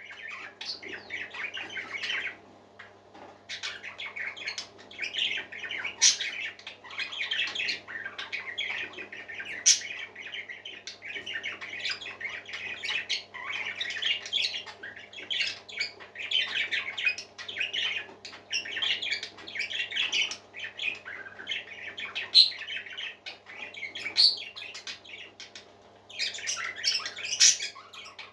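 Parakeets chattering and warbling in a busy, continuous stream of short calls with a few sharp clicks, easing off briefly about three seconds in and again near the end. A steady low hum runs underneath.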